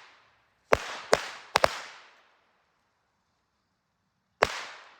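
Firecrackers going off: three sharp bangs in quick succession about a second in, and one more near the end, each followed by a fading echo.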